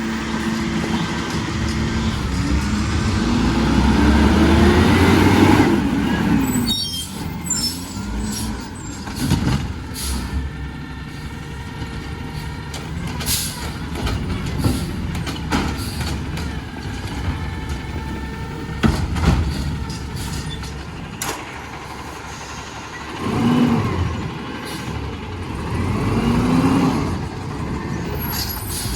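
Garbage truck's diesel engine revving up with a rising pitch while it works its hydraulics, followed by scattered knocks and clanks, then two more shorter revs near the end.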